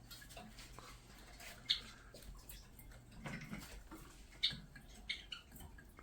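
Pigeons moving about: three sharp taps, such as pecks or claws on a hard surface, about two, four and a half and five seconds in, with faint scuffling and a short low rumble in the middle.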